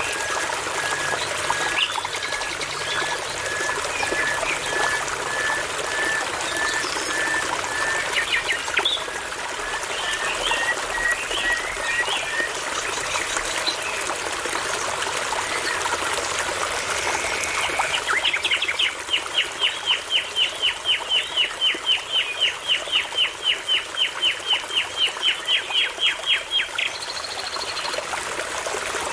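Songbirds singing over a babbling brook. For the first dozen seconds one bird repeats a short note about twice a second, slowly rising in pitch. Later a fast run of short sweeping notes, several a second, goes on for about eight seconds. The brook's running water hisses steadily underneath.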